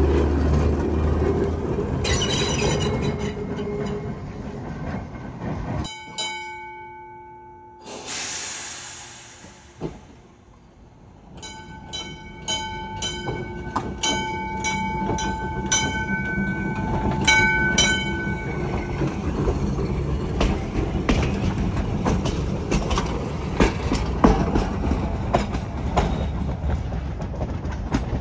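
Train rolling by with a steady rumble of wheels on rail. After an abrupt cut to a quieter scene, a multi-note train horn sounds in a series of blasts. The cars then roll past with a steady rumble and the clickety-clack of wheels over rail joints.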